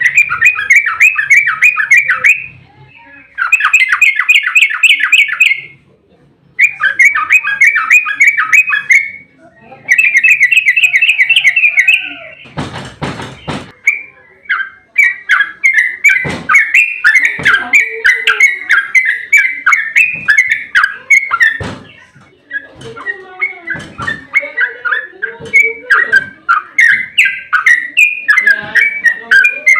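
Yellow-vented bulbul (trucukan) singing its rapid rolling 'ropel' song: four fast trilled phrases of about two and a half seconds each with short pauses, a brief burst of noise about halfway, then continuous fast chattering.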